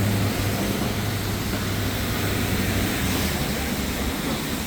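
Street traffic on a wet road: a steady hiss with a low engine hum that fades out about three seconds in.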